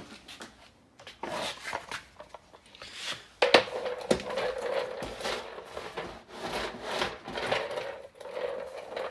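A welder trolley on small casters being pushed and pulled under a wooden workbench: scraping and rubbing with several knocks, then a steadier rolling sound from about three and a half seconds in.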